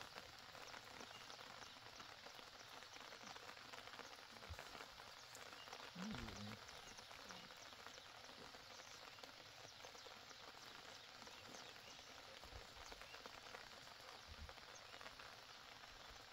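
Faint, steady light rain falling, a soft even hiss, with one short low vocal sound about six seconds in.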